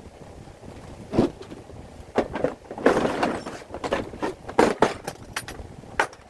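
Irregular knocks and clatter of hard objects being moved or set down, with a longer rattling stretch about three seconds in.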